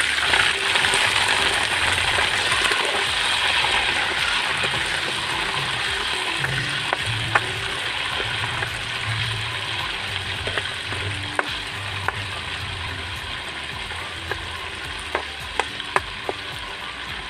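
Chicken gizzards sizzling in hot oil in a nonstick pan, the cold raw meat just added. The frying is loud at first and eases off gradually, with a metal spatula stirring and clicking against the pan several times in the second half.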